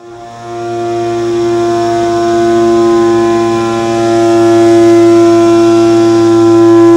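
End mill on a CNC machining center cutting aluminum at about 7,650 rpm: a loud, steady whine held on one pitch with many overtones, swelling in level over the first couple of seconds.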